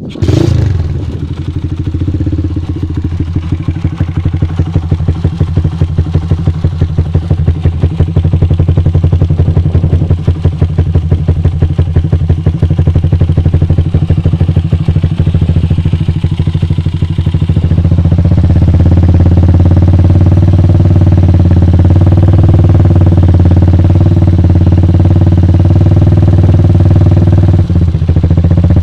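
Motorcycle engine with an aftermarket exhaust, starting up abruptly and idling with a quick, uneven pulsing beat. About two-thirds of the way through it settles into a steadier, slightly louder run at a raised idle.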